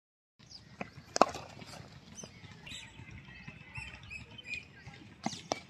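Outdoor ambience with small birds chirping in short bursts and a few sharp knocks, the loudest about a second in.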